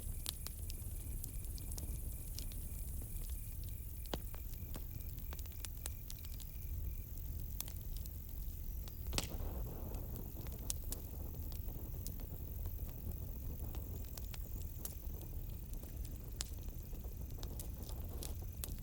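Campfire crackling, with scattered sharp pops and one louder pop about nine seconds in, over a steady low rumble. Crickets trill in the background, one pulsing chirp stopping about seven seconds in.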